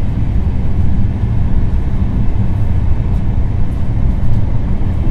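Steady, loud rumble of the Bhopal Shatabdi Express passenger coach running at about 150 km/h, heard from inside the coach.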